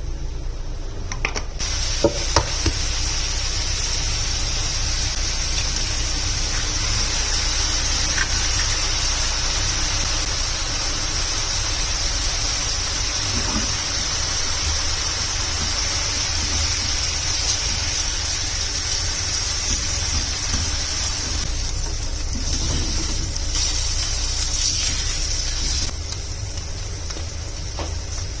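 Food frying in a pan with a steady sizzle. It starts shortly after the beginning with a few light clicks and thins out near the end.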